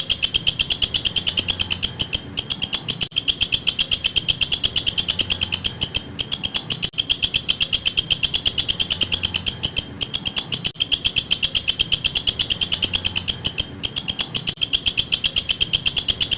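Walang kecek katydid calling: a loud, high-pitched chirping made of rapid even pulses, about eight a second, with a short break roughly every four seconds.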